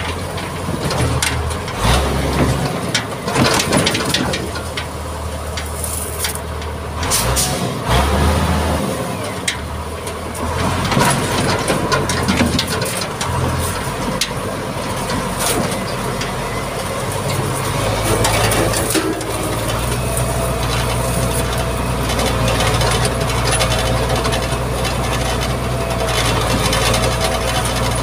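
Mitsubishi MG330 motor grader's diesel engine running, with irregular knocks and rattles over the first half. About two-thirds of the way in the engine note rises a little and holds steady, with a faint whine above it.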